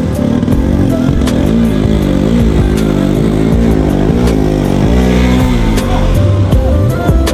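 Motorcycle engine labouring on a rough, bumpy dirt track, its revs rising and falling over and over, with scattered sharp knocks and rattles.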